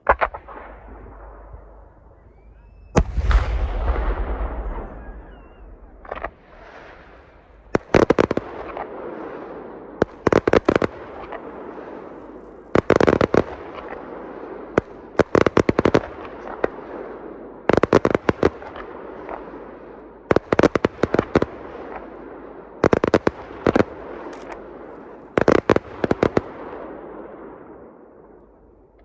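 Aerial fireworks shells bursting: a sharp bang at the start and a deep boom about three seconds in. From about eight seconds on come clusters of sharp cracks roughly every two and a half seconds, with echoing rumble between them.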